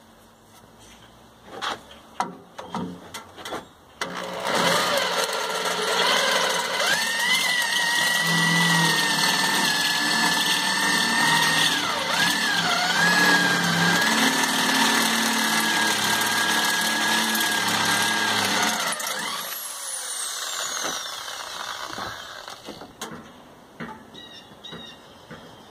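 A few clicks and knocks, then a handheld power tool runs for about fifteen seconds with a steady whine. Its pitch dips briefly midway as it bogs under load. Then it is released and winds down with a falling whine.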